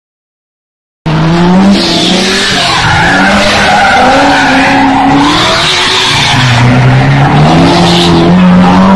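Silence for about a second, then a sudden cut to a loud car engine revving up and down, with tyres squealing in several spells.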